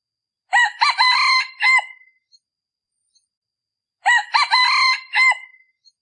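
A decoy rooster, of the kind used to lure wild junglefowl cocks, crowing twice, about three and a half seconds apart.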